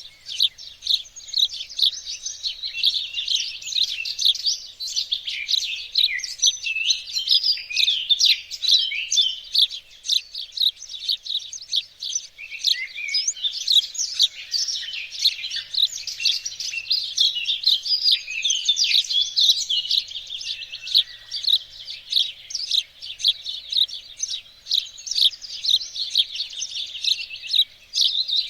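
Many small songbirds chirping and singing at once in a dense, unbroken chorus of quick high notes and trills.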